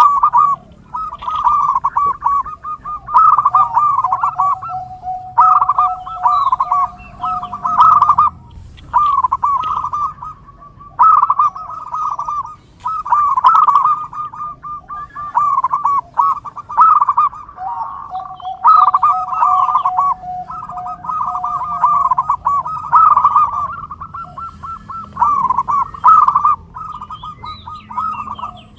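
Zebra doves (perkutut) cooing: phrase after phrase of rapid, rippling notes with short pauses between them. Twice a long, steady, lower note runs under the phrases.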